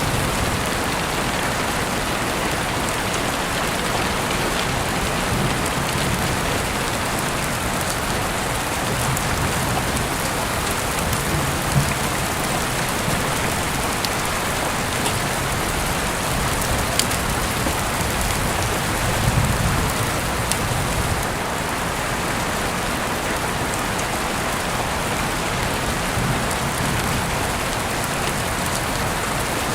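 Steady heavy rain falling, with a few sharper single drop hits.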